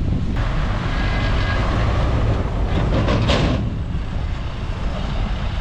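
Heavy diesel earthmoving machinery running under load, a steady deep engine rumble with a rushing, scraping noise over it and a short hiss about three seconds in.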